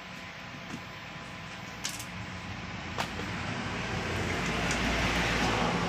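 Background street noise with a steady hum, swelling slowly with a low rumble as of a passing vehicle, and two sharp clicks about two and three seconds in.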